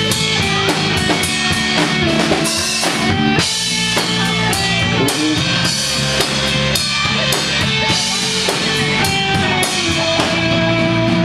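Rock band playing live without vocals: electric guitar and bass over a steady drum-kit beat.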